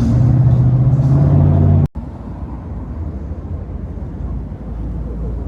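Lowrider car engine running with a steady, loud rumble that cuts off abruptly about two seconds in. A quieter, lower rumble of traffic follows.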